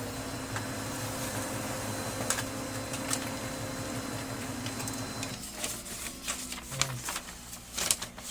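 Brother DCP-L2540DW laser printer running a print job: a steady mechanical whir and hum from its repaired gear train, with no grinding gear noise. It stops about five seconds in, followed by a few clicks.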